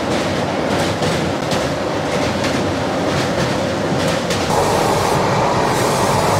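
Express passenger train running at speed over a river bridge, heard from the open coach door: a steady rumble of wheels and wind with regular rail clicks about twice a second. About four and a half seconds in the sound turns to a duller, deeper rumble.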